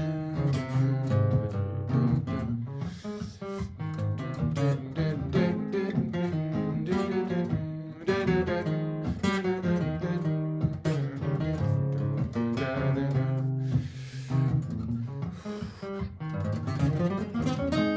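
Martin GPCPA4 acoustic guitar played through a looper: improvised picked lines over a looped backing with steady low bass notes, with a quick rising run of notes near the end.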